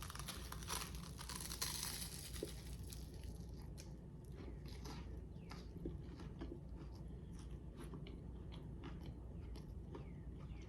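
A close-miked bite into a big stacked deli sandwich, crunching for the first couple of seconds, then steady chewing with many small crisp clicks and crunches.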